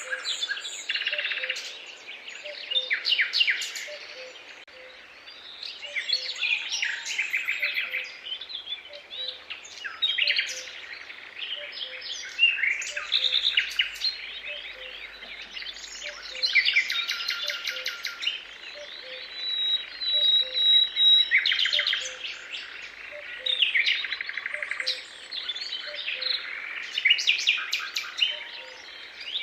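Several songbirds singing at once, repeating trilled and chirping phrases every second or two. A faint low note repeats at an even pace underneath.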